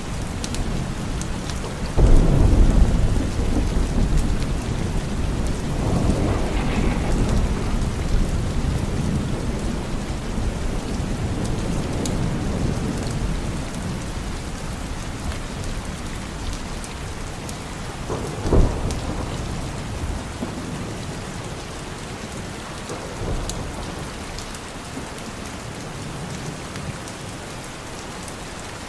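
Steady rain with thunder. A loud clap comes about two seconds in and rolls on for several seconds, and a shorter, sharper crack follows past the middle.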